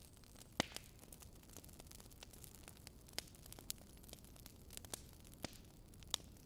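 Campfire crackling: irregular sharp pops and snaps of burning wood over a soft steady hiss, a handful of louder pops scattered through.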